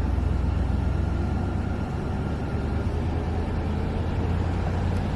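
Steady low rumble of a vehicle driving, engine and road noise with no changes in pitch.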